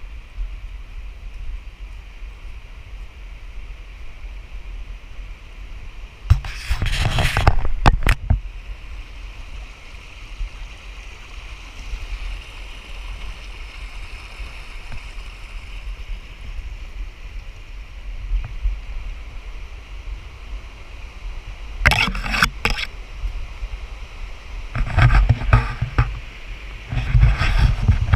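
Creek water running steadily, heard through a GoPro's microphone with a low rumble of wind or handling noise. Several loud bursts of rubbing or buffeting noise on the microphone come about six seconds in, around twenty-two seconds, and twice near the end.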